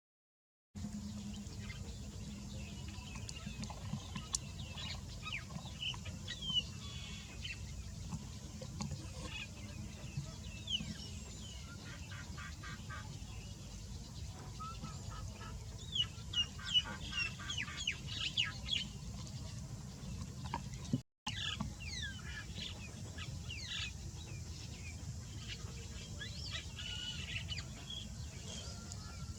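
Birds calling: many short, quick chirps and calls, thickest in the middle, including a rapid run of pulsed notes, over a steady low rumble. The sound drops out for an instant about two-thirds of the way through.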